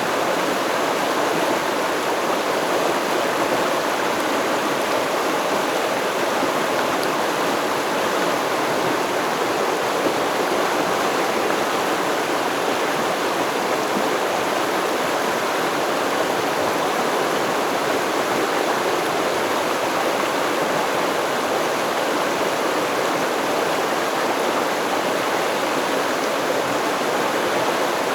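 Stream water flowing and babbling over rocks, a steady rushing splash.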